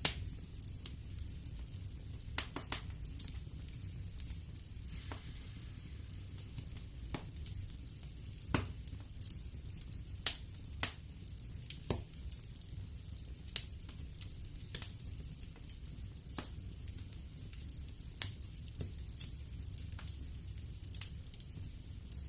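Wood fire burning in a fireplace: a low steady rumble with irregular sharp crackles and pops, a quick cluster of them about two and a half seconds in.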